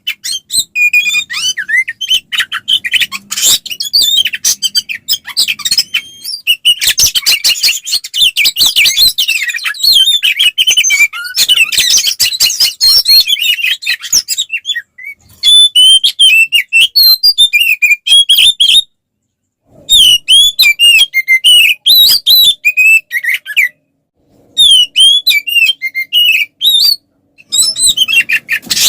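Oriental magpie-robin (kacer) singing a loud, fast, varied song of rapid chirps, whistled notes and sharp clicks, in the non-stop, aggressive fighting style used to provoke rival males. The song comes in bursts, with a few brief pauses in the second half.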